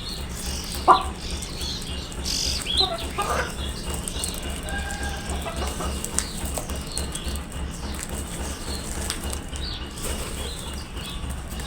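Birds calling in short, scattered chirps, with a few lower calls in the first few seconds and a sharp loud call about a second in, over a steady low rumble.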